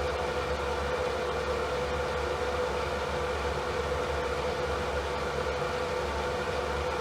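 Electric fan running steadily: an even whoosh of air with a constant mid-pitched hum and a low drone underneath, unchanging throughout.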